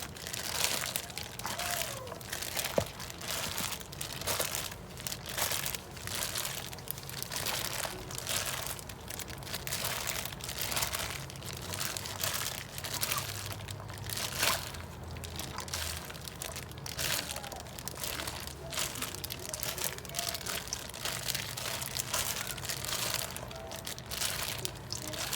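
Plastic bag crinkling and rustling in many short, irregular bursts as the noodle salad is tossed and squeezed inside it.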